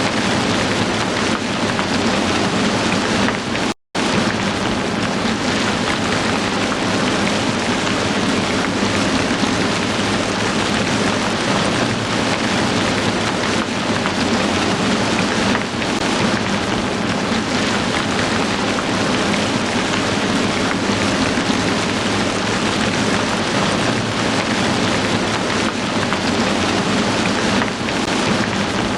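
Heavy rain falling steadily, a dense, even hiss of drops on surfaces. It cuts out completely for a split second about four seconds in, then resumes unchanged.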